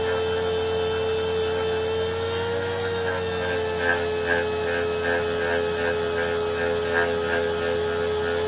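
Dual-action sander running steadily against a steel axe head, a constant motor whine with a faint regular pulsing that sets in a few seconds in.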